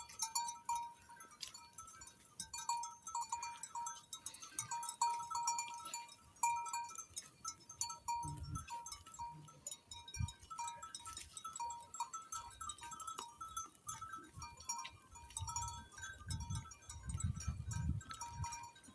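Sheep close by, making low sounds about 8 seconds in and again near the end. Small birds chirp steadily throughout.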